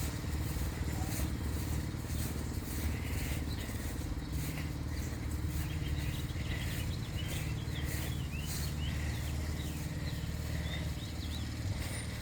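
Motorbike engine idling steadily, with birds chirping through the middle.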